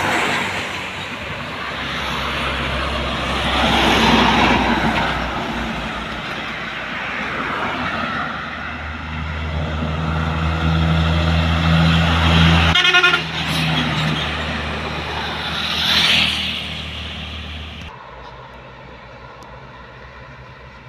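Heavy diesel trucks driving past on a road, the engine sound swelling as each one goes by. Near the end the sound drops suddenly to a quieter, steady engine hum.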